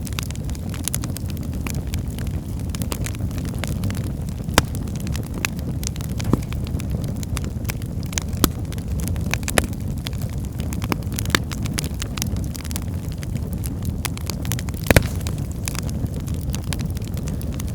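Wood fire burning in a fireplace: a steady low rumble of flame with irregular crackles and snaps of burning firewood, and one louder pop a little past three-quarters of the way through.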